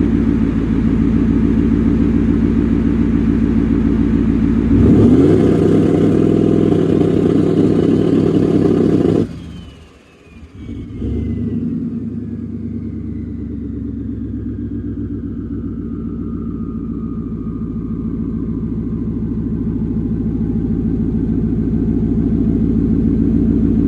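Turbocharged S550 Ford Mustang engine running steadily, then revving up about five seconds in and holding high until it drops away suddenly about nine seconds in, before settling back to a steady run that slowly grows louder.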